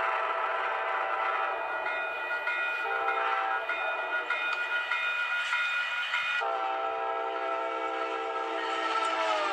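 Horn of an Amtrak P42 passenger locomotive sounding without a break, its chord shifting about three seconds in and again past six seconds, then dropping in pitch near the end as the train passes.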